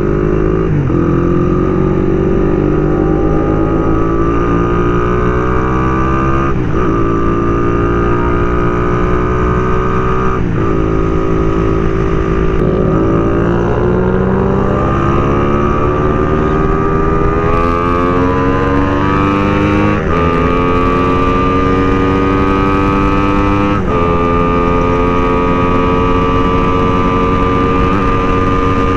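A motorcycle engine pulling through the gears on the road. Its pitch climbs steadily in each gear and drops sharply at each upshift, several times, then holds steady near the end. A constant rumble of wind on the microphone runs under it.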